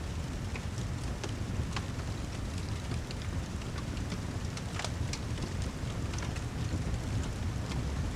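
Rain and fireplace ambience: a steady low rumble of rain with irregular sharp crackles and pops from the fire, a few every couple of seconds.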